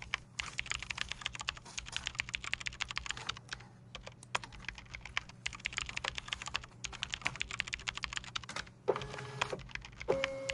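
Fast typing on a computer keyboard, a rapid run of key clicks with short pauses, over a low steady office hum. A brief electronic tone sounds about nine seconds in, and another steady tone comes in near the end.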